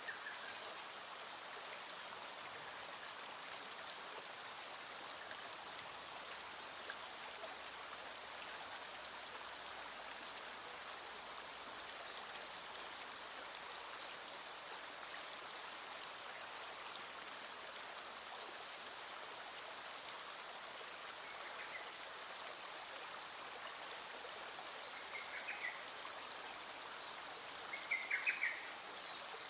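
Small stream flowing steadily over rocks, with a few short bird calls near the end.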